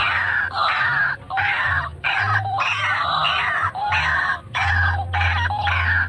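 White-breasted waterhen calls: loud, harsh, repeated croaking phrases with brief breaks between them, the bird's lure call used to draw wild waterhens to a snare.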